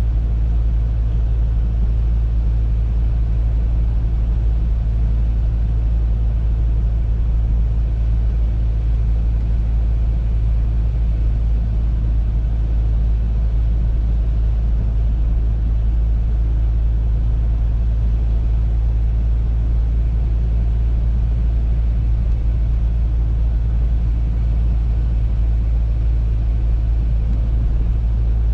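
Audi A3 driving at a steady speed: a constant low rumble of engine and road noise that does not change.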